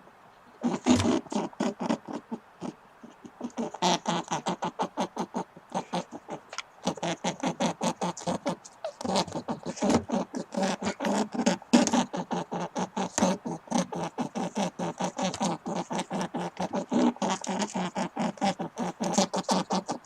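Hamster chewing: a rapid run of crunching clicks, about five a second, with short pauses.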